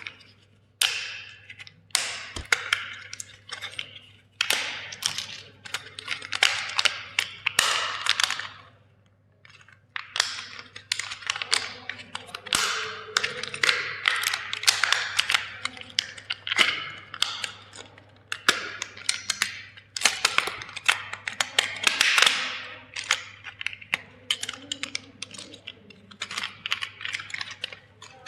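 Plastic toy vehicle being crushed: rapid crackling and snapping of plastic in bursts, with a short pause about nine seconds in.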